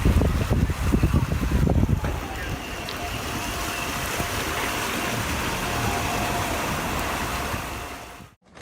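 A vehicle driving through floodwater: a steady rushing noise with engine sound in it. The first two seconds are loud and gusty with a low rumble, then it settles to an even rush and cuts off just before the end.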